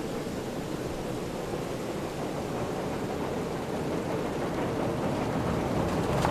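Rumbling noise of an approaching train, growing gradually louder, with no whistle sounding.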